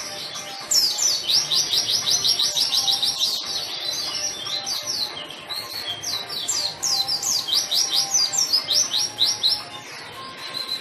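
A white-eye (pleci) singing vigorously: fast runs of sharp, high, down-slurred notes, about eight or more a second, starting about a second in and again about halfway through, with softer twittering between.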